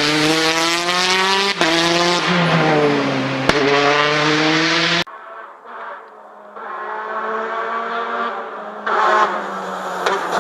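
Rally car at full throttle, engine pitch climbing and dropping sharply through gear changes, with a couple of sharp cracks. About five seconds in, the sound cuts off suddenly; another rally car is then heard approaching, its engine growing louder.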